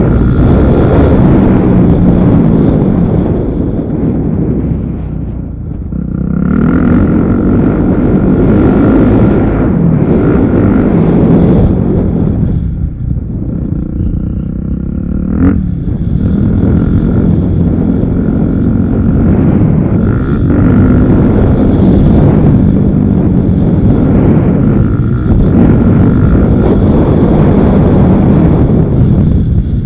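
Motocross motorcycle engine running hard under throttle, easing off briefly about five seconds in and again around the middle before pulling back up.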